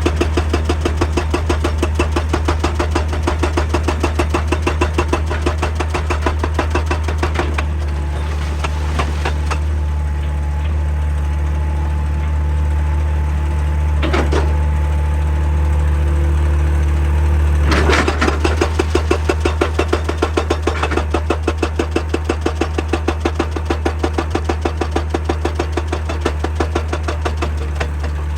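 Excavator-mounted hydraulic rock breaker hammering rapidly and evenly over the excavator's steady diesel engine. The hammering stops for about ten seconds midway while the engine keeps running, with a couple of single sharp knocks, then resumes.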